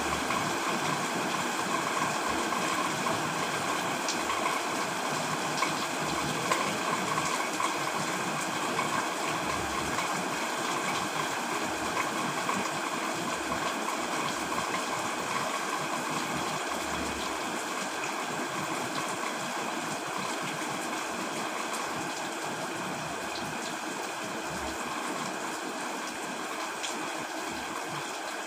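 Heavy rain falling steadily, an even hiss of water with a few faint drop ticks, growing slightly quieter toward the end.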